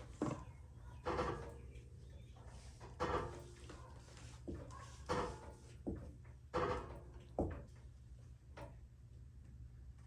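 Pittsburgh 3-ton low-profile floor jack being pumped by its handle to raise a truck: a clunk with a short creak on each stroke, about every one to two seconds, thinning out near the end.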